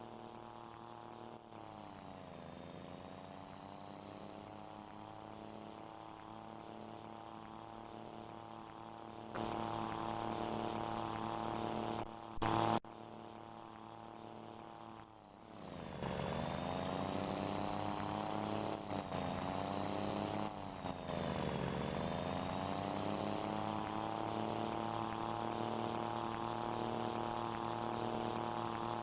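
Scania Super 540 truck's diesel engine with a straight-through exhaust, pulling through the gears: the engine note drops and climbs back at each shift, three times. It gets louder about a third of the way in, with a brief loud burst near the middle.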